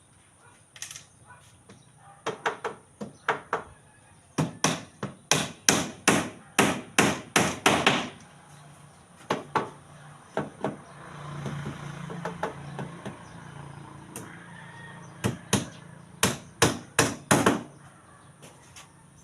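Hammering: runs of sharp, hard blows, about two a second at their quickest, coming in several bursts with short pauses between them.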